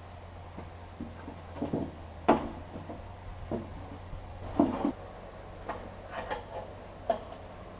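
Irregular knocks and clunks of metal parts, two of them sharper and louder, as an improvised push tool and jack are worked behind a dented car fender, over a low hum that stops about two-thirds of the way through.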